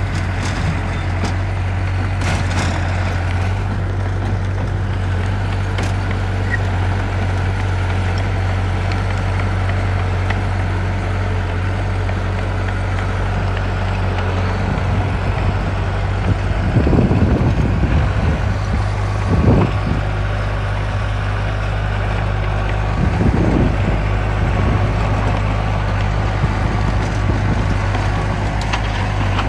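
Heavy construction machine's diesel engine running steadily with a low hum, with a few brief louder surges past the halfway point.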